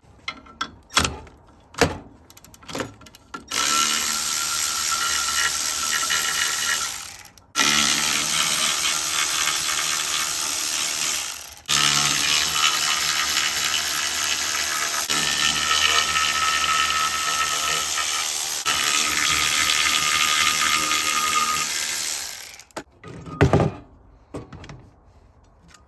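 A handheld power tool running loud and steady in three long stretches, broken by two short pauses, with a few sharp clicks and clanks of metal parts before and after.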